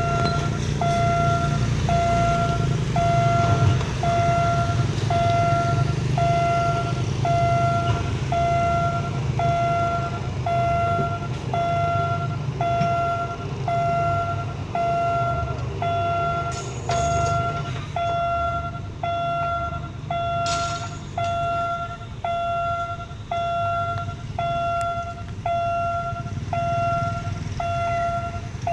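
Level-crossing warning alarm beeping steadily, a bit more than once a second, as the crossing signals an approaching train. Underneath runs a steady low rumble of vehicle engines, with two short noisy bursts in the second half.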